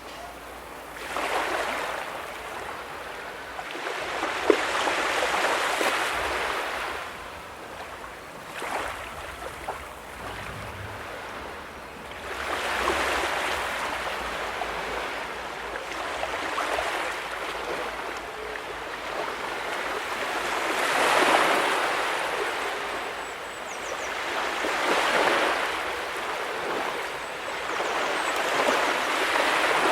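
Small ocean waves breaking and washing up the sand, swelling and fading in surges every few seconds.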